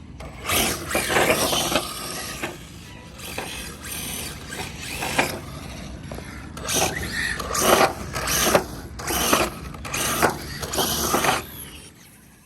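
R/C drag cars running down the strip: their drivetrains and tires make a run of loud, rasping mechanical bursts, each a fraction of a second long, lasting about eleven seconds.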